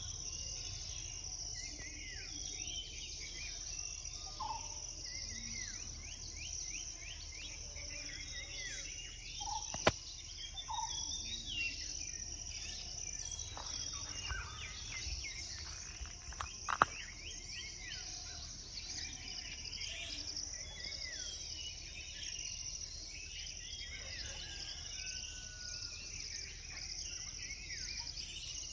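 Dawn chorus of many small birds chirping and calling at once, over a steady high drone of insects. Two sharp clicks stand out, about ten and seventeen seconds in.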